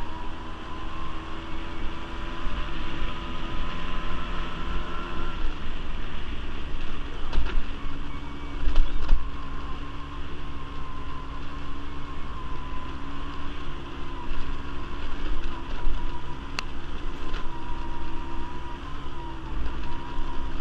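Quad bike (ATV) engine running while being ridden, its pitch dropping slightly about five seconds in and rising again near the end, over an uneven low rumble.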